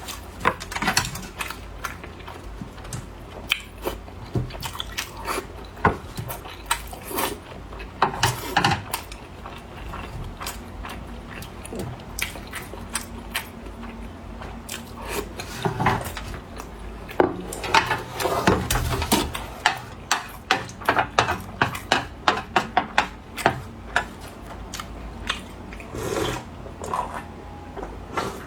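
Close-up eating sounds: a person chewing and biting food, with many short, irregular smacks and clicks.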